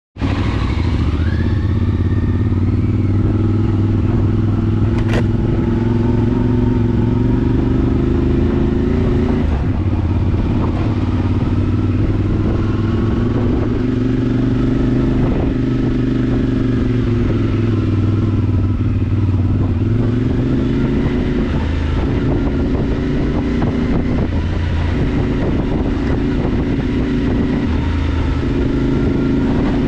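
CFMoto motorcycle engine running steadily while riding, its pitch rising and falling slightly with small changes in engine speed.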